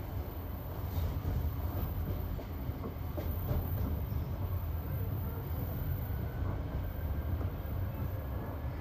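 Passenger train rolling on jointed rail track, heard from inside the carriage: a steady rumble of wheels on rails with a few faint clacks at the rail joints.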